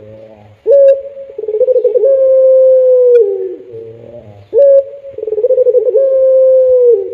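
Puter pelung, a ringneck dove kept for its long call, cooing loudly: twice a short rising note followed by a long held coo that drops in pitch at its end.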